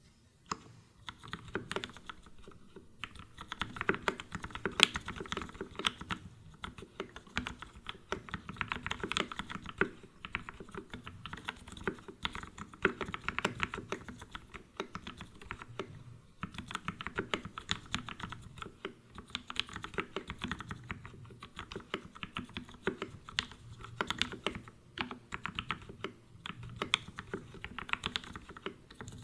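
Typing on a Matrix Abel X custom mechanical keyboard with an aluminium plate, lubed Gateron Ink Black V1 linear switches and GMK keycaps: a steady stream of quick keystrokes with a few brief pauses.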